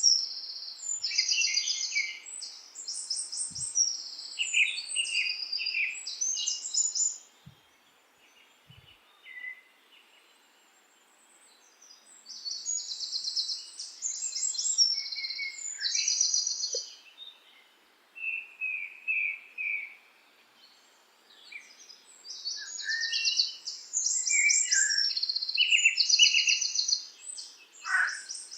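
Songbirds singing in bursts of rapid high trills and chirps, several phrases overlapping, with two lulls of a few seconds in between.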